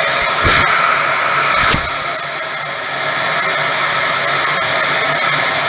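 Holife cordless stick vacuum's brushless motor running on low mode with its intake sealed by a vacuum gauge: a steady rushing hum with a faint high whine. Two low thumps come about half a second and a second and a half in.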